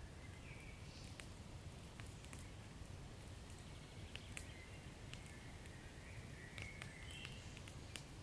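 Faint wood fire crackling, with scattered sharp pops over a low steady rumble.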